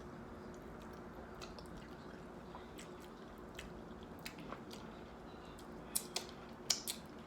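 Close-miked eating sounds of a person eating fufu with okra stew: soft, wet mouth clicks and smacks, with a few sharper, louder ones near the end, over a faint steady hum.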